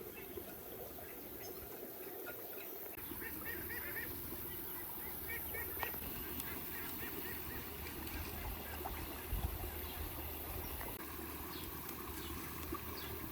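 Birds calling in clusters of short, repeated high notes a few seconds in, over a low steady rumble.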